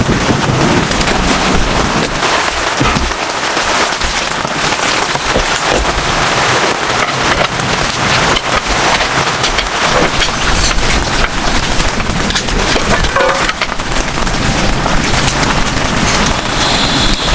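Heavy rain falling steadily, a dense crackle of drops hitting a surface, with low wind rumble underneath.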